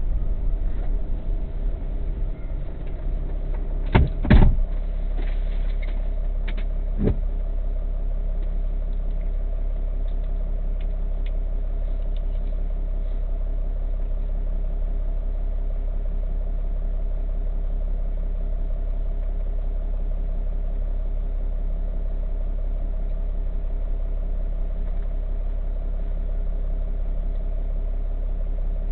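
Car engine and road noise heard from inside the cabin: a steady low hum, with a few sharp thumps about four seconds in and another around seven seconds.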